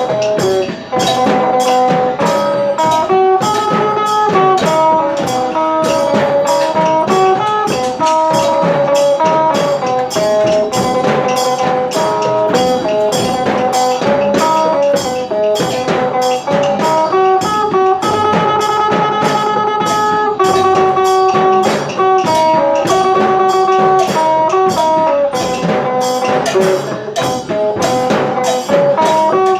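Isan phin, the Thai plucked lute, playing a lively melody of short, quickly changing notes over a steady drum beat.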